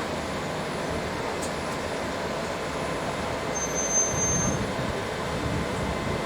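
London bus running, heard from inside the cabin: a steady rumble and road noise, with a short high-pitched squeal lasting about a second, about three and a half seconds in.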